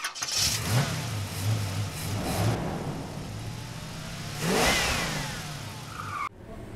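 Car engine running with a steady low hum and revving up in three surges, the last one trailing off in a falling whine; the sound cuts off abruptly shortly before the end.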